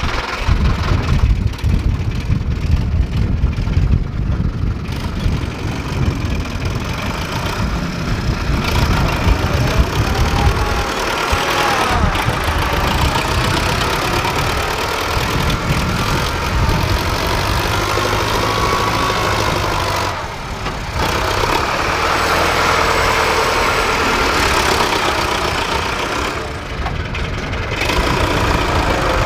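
Sonalika DI 750 RX tractor's diesel engine running steadily, with brief dips in loudness twice in the latter half.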